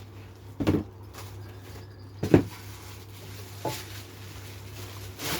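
Three short knocks and clunks as power rack parts are handled and set down, the middle one the loudest, over a low steady hum.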